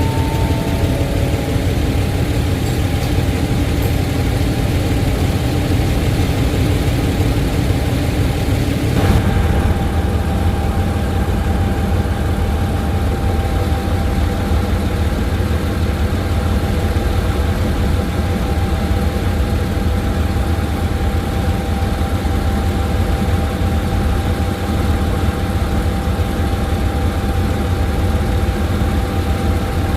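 Diesel train engine running steadily with a heavy rumble, its tone shifting once about nine seconds in.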